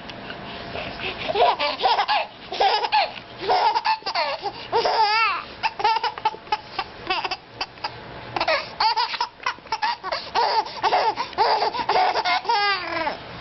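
A baby laughing in repeated bursts of high-pitched giggles.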